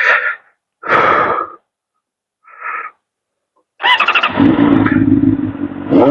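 Sportbike engine firing up about four seconds in after three short noisy bursts, then idling steadily, with a brief rev near the end.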